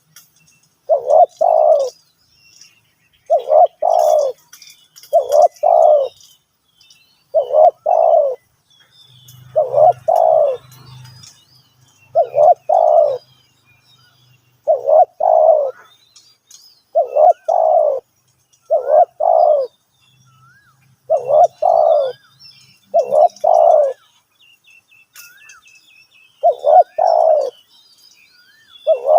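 Spotted dove cooing: double-noted coos repeated steadily about every two seconds, with one longer pause near the end. Faint chirps of small birds are heard higher up.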